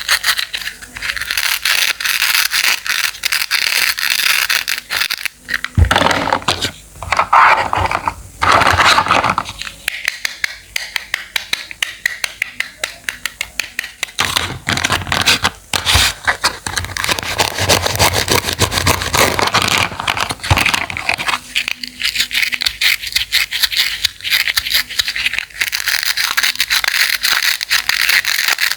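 Knife cutting fruit and vegetables in rapid, repeated strokes, with a few longer scraping passages.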